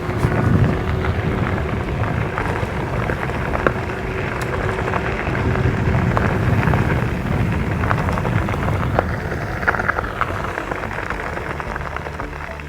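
Fat 24-inch tires of an electric bike rolling over a gravel road: a steady crunching rumble with scattered small pops of stones.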